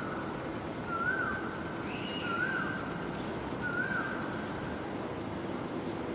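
A bird's short whistled note, rising then falling, given three times about a second and a half apart, with a fainter higher note among them. Under it runs a steady rush of wind noise.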